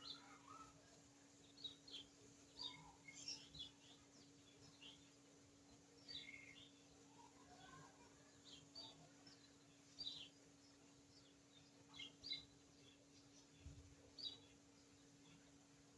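Faint, short high-pitched bird chirps, scattered irregularly, over a steady low hum.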